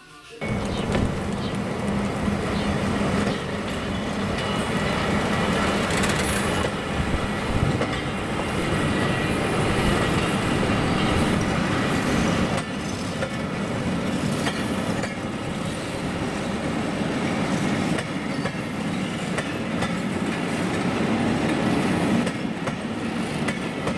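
Passenger train running along the track: a steady rumble and rush of wheel and rail noise with a few faint clicks, and a low steady hum during the first few seconds.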